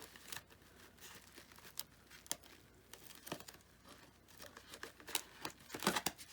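Faint, scattered rustles and small crackly clicks of foam-board pieces being handled and set in place, busier near the end.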